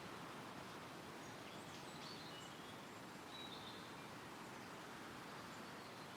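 Steady wind rustling through woodland trees, with a few faint, high bird chirps in the middle.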